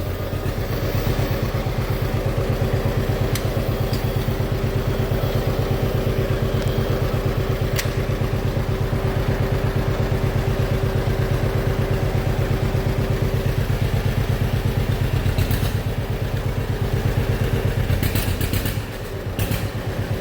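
Tractor engine running steadily at idle with an even, pulsing beat, shortly after starting. Near the end the beat drops off briefly, then picks up again.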